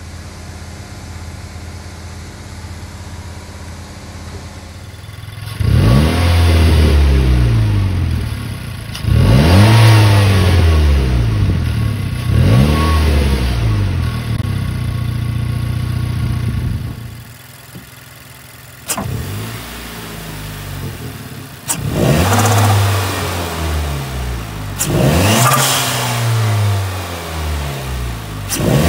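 Nissan Pulsar SSS's turbocharged MR16DDT four-cylinder idling, then blipped three times, each rev rising and falling back. This first part is with the stock airbox intake. After a cut it idles again and is blipped three more times with a custom 3-inch intake pipe and open cone filter fitted.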